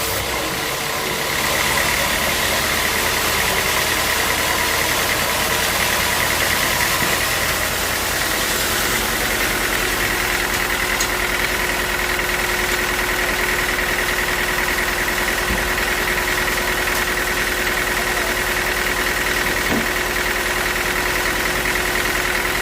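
Sawmill running steadily: a machine drone with a steady high whine, a little louder from about two seconds in.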